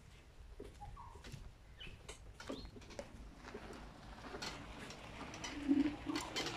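Birds calling in garden trees: a short chirp about a second in, then a low two-part coo, the loudest sound, near the end, over scattered light clicks and steps.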